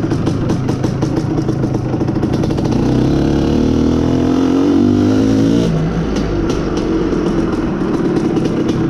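IZh Planeta Sport's single-cylinder two-stroke engine under way, revs climbing for about three seconds, then dropping off sharply about halfway through and running on at lower, steadier revs.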